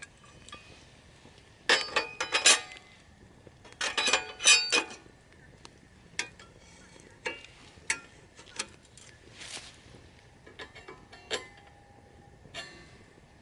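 Metal camp cookware and utensils clinking and clattering: two busy bursts of ringing metal-on-metal knocks in the first half, then scattered single clinks.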